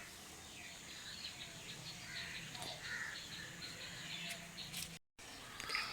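Faint background birds chirping and calling, with a few small ticks, cut by a brief dropout about five seconds in.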